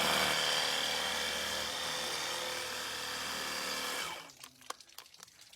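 A motor-driven machine running with a steady, dense hiss that cuts off abruptly about four seconds in, followed by a few faint clicks.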